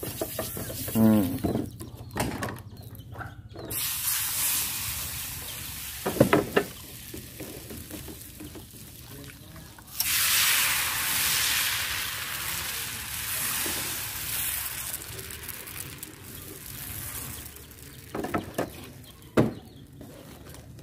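Food sizzling on a hot, margarine-greased non-stick pan as the tapioca batter for a papeda cilung cooks: a hiss that jumps up suddenly about halfway through and slowly eases off over several seconds.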